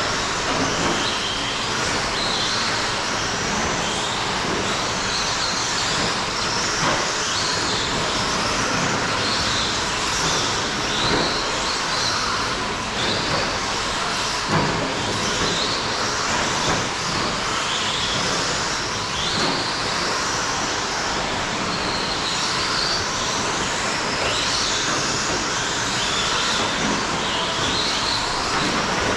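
A field of electric short course RC trucks with 17.5-turn brushless motors racing. The motor whines rise and fall as the trucks accelerate and slow through the corners, over a haze of tyre and drivetrain noise, with a few sharp knocks from bumps or landings.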